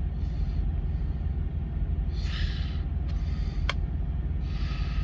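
Steady low rumble of an idling diesel engine. Soft rustles come about two seconds in and again near the end, with a sharp click between them.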